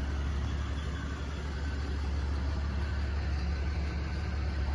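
Heavy engine running steadily, a low even drone with no revving or impacts.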